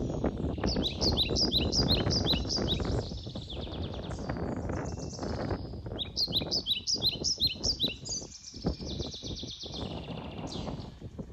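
A small songbird singing: two runs of quick, high, downward-sliding chirps, one starting just after the beginning and another about six seconds in. A low rumbling noise runs underneath.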